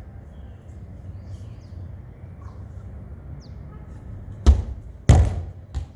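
A ball thuds three times in quick succession, the second hit the loudest, over a steady hiss of rain.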